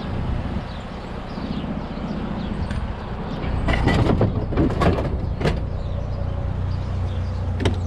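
Pickup truck engine idling steadily, with a run of sharp metal clanks and knocks about four to five and a half seconds in and one more near the end, as a scrap snowblower part is picked up and loaded.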